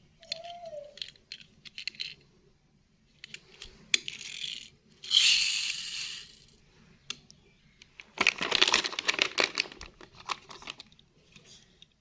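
Handling noises: scattered clicks and rustling, a hissing scrape about four to six seconds in, and a loud clattering rattle from about eight to ten seconds in.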